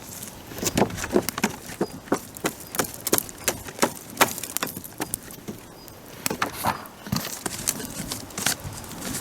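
Dry wood cracking and snapping in sharp, irregular clicks, two or three a second, with a short lull in the middle.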